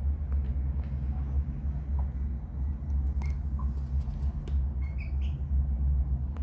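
A young cockerel giving a few faint, short squawky peeps, mostly about three to five seconds in, over a steady low rumble that is the loudest thing throughout.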